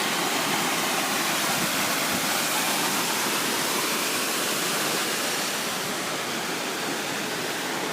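Steady rushing of a large waterfall, the falling water making an even roar of noise, a little softer near the end.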